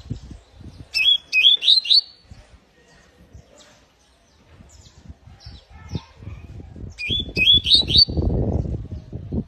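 Canary calling: twice, about six seconds apart, a short phrase of about four quick rising chirps. Irregular low rumbling and knocking runs underneath and grows loudest near the end.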